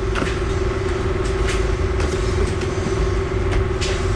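Workshop machinery running steadily: a constant hum over a low rumble, with scattered light clicks and taps.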